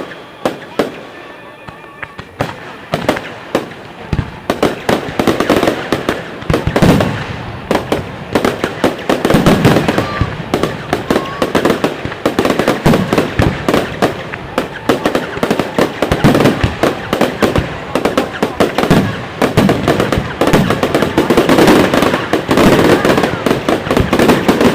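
Fireworks display: aerial shells bursting with crackling, the bangs coming faster after a few seconds and building into a dense, near-continuous barrage.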